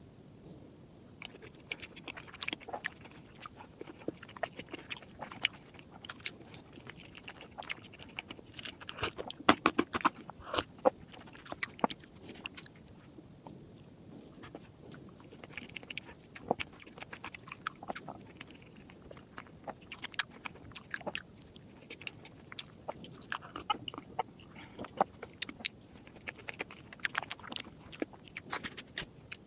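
Close-miked eating sounds: biting and chewing chocolate desserts, with many sharp wet clicks and crunchy crackles in quick, irregular succession.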